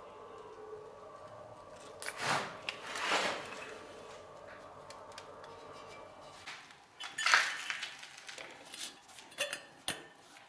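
Hard objects being handled and set down: a couple of scraping rustles about two to three seconds in, then a run of sharp clinks and clatters in the second half.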